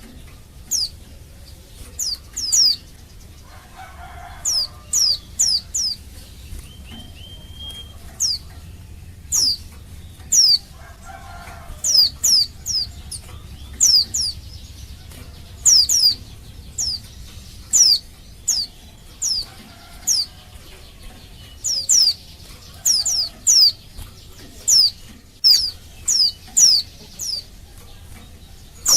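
Female white-eye (pleci) calling to males: short, high, downward-sweeping notes, often in quick pairs or threes, repeated about once a second.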